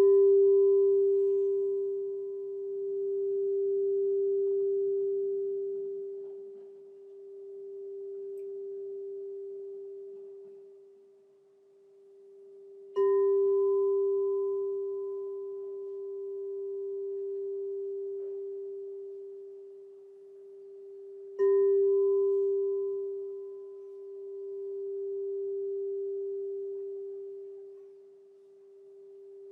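Crystal singing bowl struck three times, each strike a sharp onset into one long, pure, steady tone with a faint higher overtone. Each ring decays slowly, swelling and fading in a slow waver, before the next strike about 13 and 21 seconds in.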